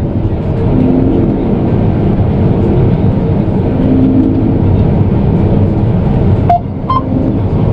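Combine harvester running, a steady low engine drone as heard from the cab. Two short beeps come near the end.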